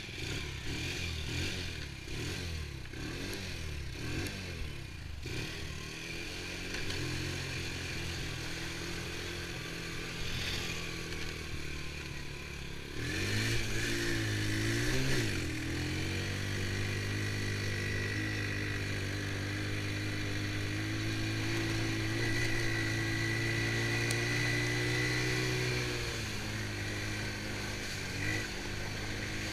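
Honda TRX90 ATV's small single-cylinder four-stroke engine running. It revs up and down in the first few seconds and again about halfway through, holds a steady speed for about ten seconds, then eases off near the end.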